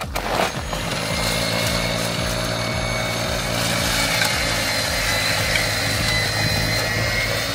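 Snow blower engine running steadily, a repaired snow blower that now runs.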